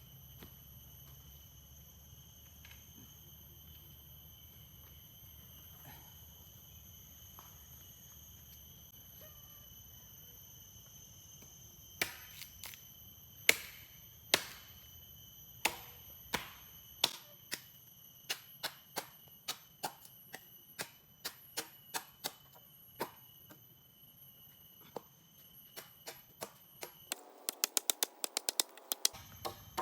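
Sharp knocks of wood being struck with a tool while a shelter is built. They start about halfway through at roughly one a second and come quicker near the end. A steady high insect drone runs underneath.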